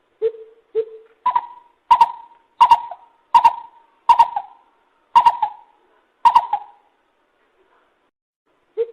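Lesser coucal calling with hollow, owl-like hoots. Two low notes are followed by a series of seven louder, higher notes that slow as they go, then a short pause and another low hoot right at the end.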